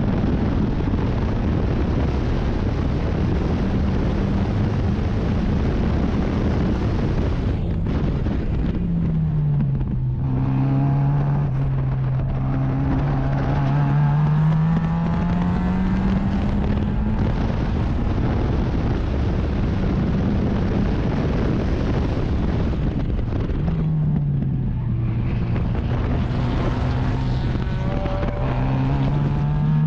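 Race car engine running hard on a road course. Its note drops twice as the car slows for corners, then climbs steadily again as it accelerates back up to speed.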